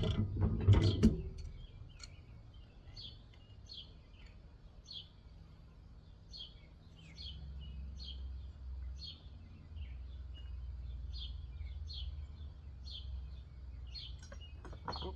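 A few sharp clanks in the first second, typical of metal parts being knocked while an air conditioner is pulled apart for scrap, then small birds chirping over and over, with a low steady rumble coming in about halfway through.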